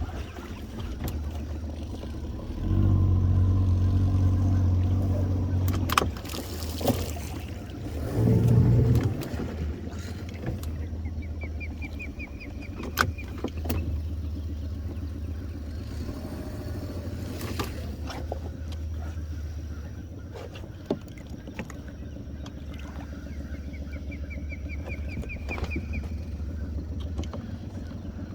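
Boat motor idling with a steady low hum. It swells louder for about three seconds a few seconds in, and again briefly near the ninth second, with scattered sharp knocks and clicks over it.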